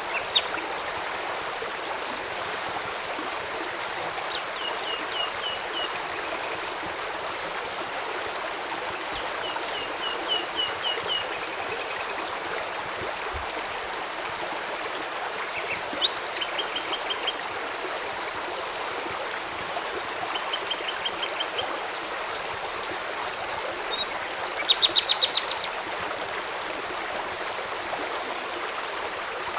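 Steady rush of a flowing river. Over it, a bird gives short runs of quick, evenly spaced high chirps every few seconds, the loudest run about 25 seconds in.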